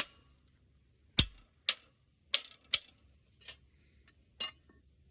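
Hammer blows on a stuck part of a Wisconsin V4 engine that won't come off: about seven sharp strikes at uneven gaps, the second one heavy with a low thud, the last ones lighter.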